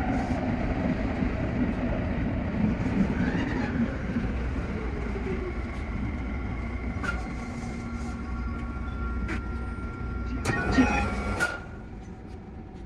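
Tsukuba Express TX-3000 series electric train running: a steady rumble with faint steady whining tones. Two sharp loud noises come about ten and eleven seconds in, and the sound drops quieter near the end.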